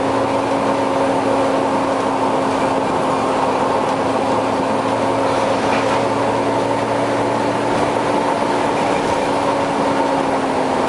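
Volvo B9TL double-decker bus running, a steady drone with a constant whine from its very loud cooling fan. The level holds even throughout.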